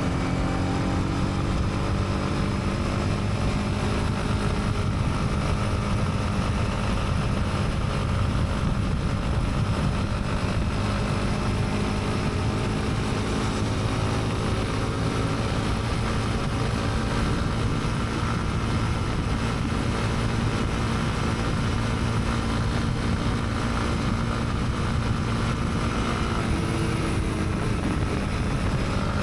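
Honda CB300R's single-cylinder engine running steadily while riding, over wind and road rumble. The engine pitch eases down over the first few seconds and shifts again near the end.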